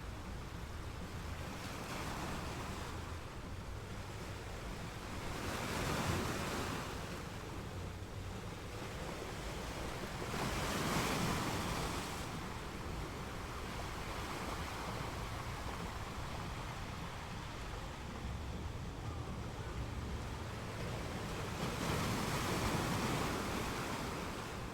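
Ocean surf: waves rolling in and washing over a steady low rush, with three bigger surges about six, eleven and twenty-two seconds in.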